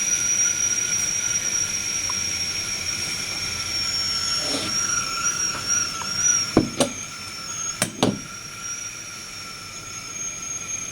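Stovetop whistling kettle whistling steadily, high-pitched, with a hiss, driven by nitrogen gas boiling off liquid nitrogen inside it rather than by steam. The pitch wavers briefly about halfway through, and a few sharp clicks come a little past the middle.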